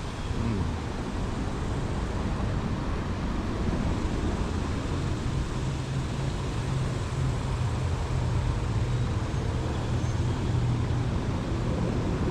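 Steady low rumble of road traffic, with a vehicle engine's drone standing out from about five seconds in until near the end.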